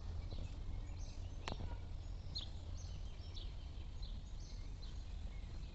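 Faint outdoor ambience: scattered short, faint bird chirps over a steady low rumble, with one sharp click about a second and a half in.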